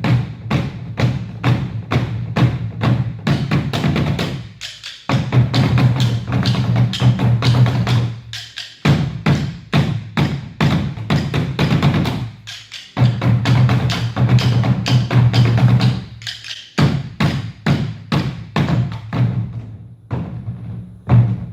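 Percussion music with rapid, evenly spaced drum strikes. Three stretches of a few seconds each are held under a sustained low tone, each ending in a brief break.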